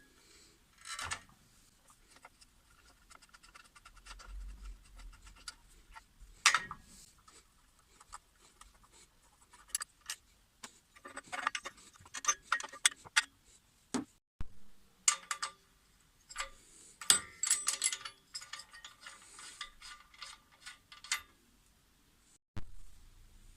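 Irregular clicks, knocks and scrapes of hand tools and small metal parts being handled during repair work, in bursts with a few sharp clicks louder than the rest.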